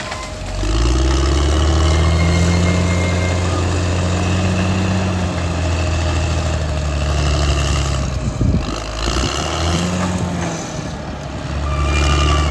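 Caterpillar D6R XL bulldozer's diesel engine running hard, its speed climbing about half a second in, holding steady, dipping briefly about eight and a half seconds in, then rising and falling again as the load changes.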